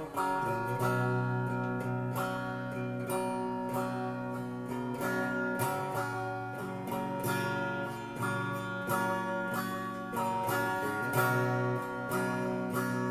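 Guitar music: a single guitar playing chords, picked and strummed.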